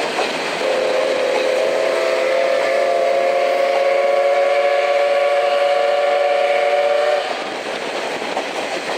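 Steam locomotive C58 239's whistle sounding one long blast of several tones together, about six seconds long, over the steady running noise of the train on the rails.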